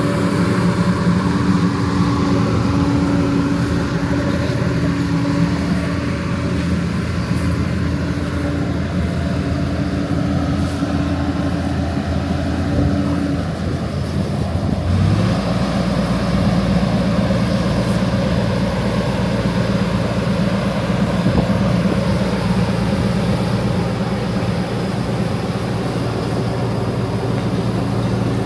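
Diesel engine of a John Deere 9650 combine running steadily under harvesting load. Its hum shifts about halfway through, as one set of tones drops away and a lower, fuller one takes over.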